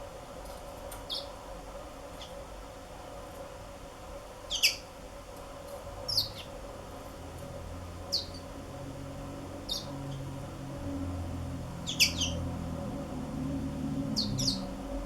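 Black-throated canaries giving short, sharp chirps, single or doubled, every one to three seconds, over a steady background hum.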